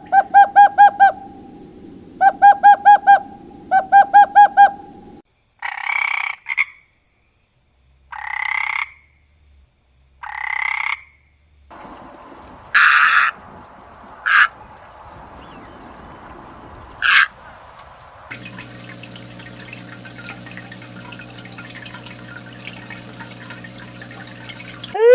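A series of animal calls: three groups of rapid pulsed, trilling calls, then three single higher-pitched calls, a few sharp clicks, and a steady droning tone over roughly the last seven seconds.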